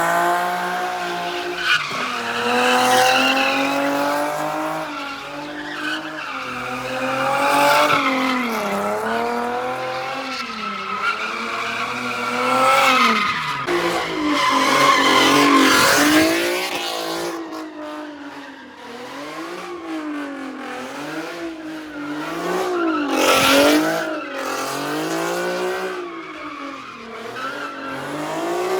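A car engine revving hard, its pitch rising and falling again and again every second or two, with tyres squealing as the car slides.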